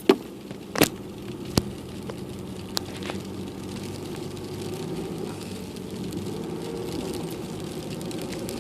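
Car engine running, heard from inside the cabin, slowly growing louder, with a few sharp knocks in the first three seconds.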